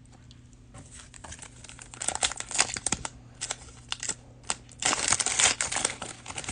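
Plastic cello-pack wrapping crinkling as a pack of trading cards is handled, with irregular small clicks and rustles. It grows louder about two seconds in and again for about a second around the five-second mark.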